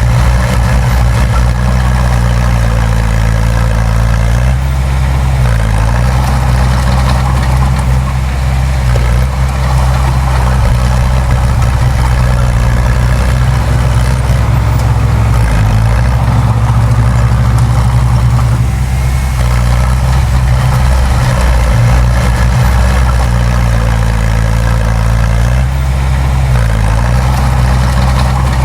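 Diesel engine of heavy earthmoving machinery running steadily, its pitch dipping and rising a few times as the load or throttle changes.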